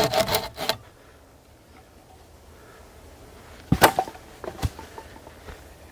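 Saw cutting wood in quick strokes that stop under a second in, then a pause and a couple of sharp knocks a little after the middle.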